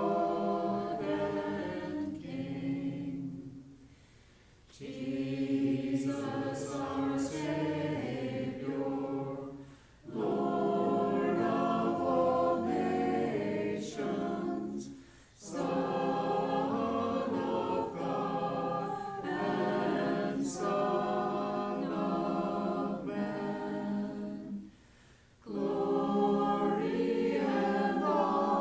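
Congregation singing a hymn in long held notes, with brief pauses between phrases.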